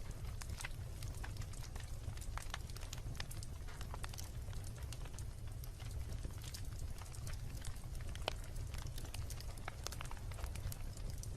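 Wood campfire burning, with frequent irregular sharp crackles and pops over a steady low rumble of flames.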